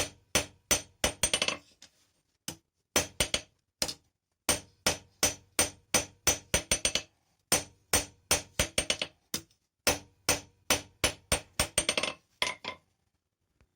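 Blacksmith's hammer striking steel on an anvil in runs of quick blows, about two to three a second, with short pauses between runs. Each blow rings briefly, and the hammering stops about a second before the end.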